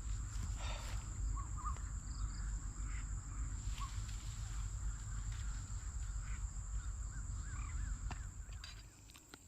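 Outdoor ambience: a steady high insect trill with scattered short bird calls over a low rumble. The rumble fades away near the end.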